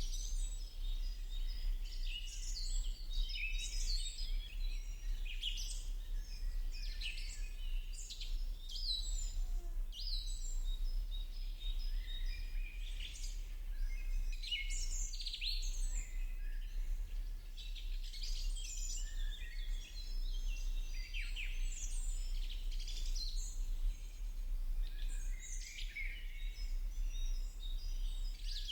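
A chorus of songbirds chirping and singing, many short quick calls overlapping without pause, over a steady low hum.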